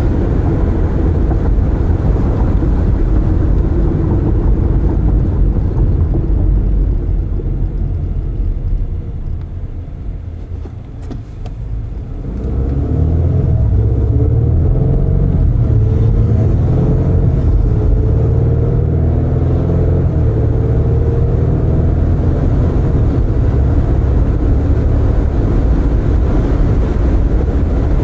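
Car driving with the windows open: road and wind noise that eases off around ten seconds in, then an engine accelerating with a pitch that rises several times in steps, settling into steady road noise at speed.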